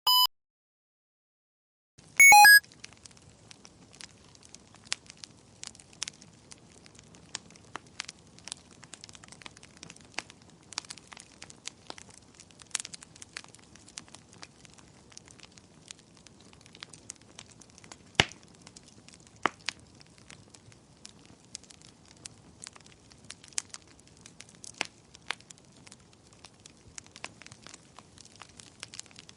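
A wood fire crackling in a fireplace: faint steady low rumble with irregular sharp pops and snaps. A short beep sounds at the start, and a brief, loud electronic chime comes about two seconds in, just before the crackling begins.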